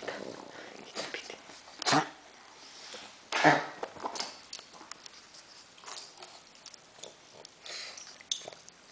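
Pug coughing as if choking, in irregular noisy bursts: a sharp one about two seconds in, the loudest about a second and a half later, and smaller breathy ones between and near the end.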